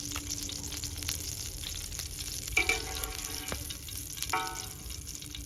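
Steady crackling and sizzling of food cooking over a wood fire, with scattered sharp pops, and two brief pitched sounds near the middle.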